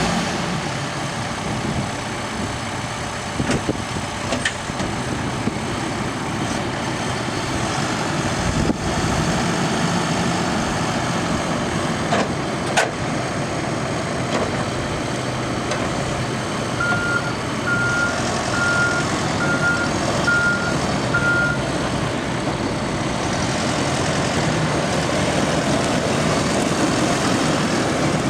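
Case 590 Super N backhoe's diesel engine running steadily, with a few sharp metal knocks. About two-thirds of the way through, its backup alarm beeps six times in an even rhythm, the sign that the machine is in reverse.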